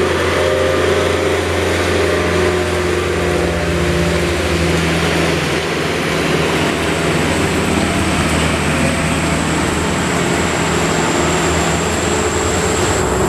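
Heavy truck's diesel engine running steadily under load on an uphill climb, with a high steady whine joining about halfway through.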